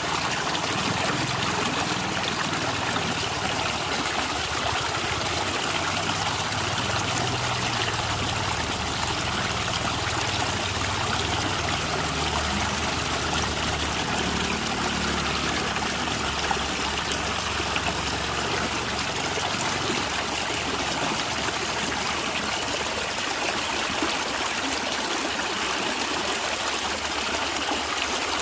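Small stream of water trickling and gurgling over rocks. The sound is a steady rush with no pauses, and there is some low rumble in the first half.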